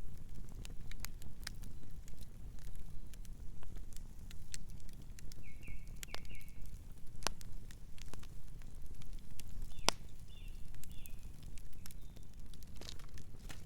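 Campfire crackling: sharp pops and snaps at irregular moments over a steady low rumble of burning. Soft bird chirps come in short runs of a few notes around the middle and again later.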